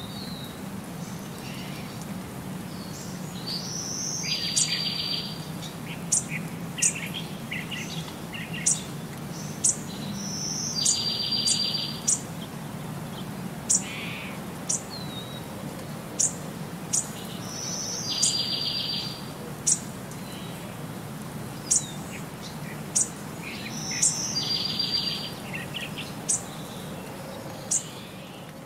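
Small birds chirping: scattered short, sharp high chirps, and a brief rapid trill that recurs every six or seven seconds, over a steady low hum.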